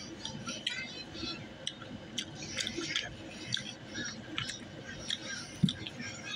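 Close-up chewing of breaded chicken nuggets: irregular wet mouth clicks. About five and a half seconds in there is a single dull thump.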